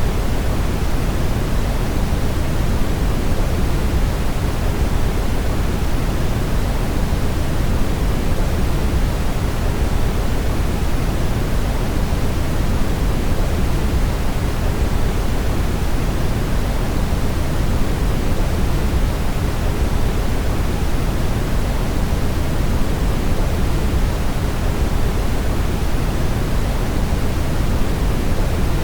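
Brown noise: a steady, unchanging rushing hiss weighted heavily toward the low end.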